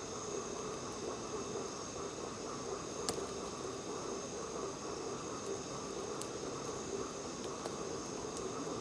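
Steady chorus of night insects with a high, even ring, broken by a few sharp crackles from the wood bonfire, the loudest pop about three seconds in.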